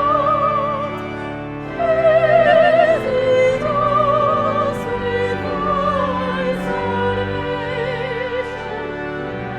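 Classical solo singing: a high voice with strong vibrato holds long, slow notes over a steady sustained accompaniment.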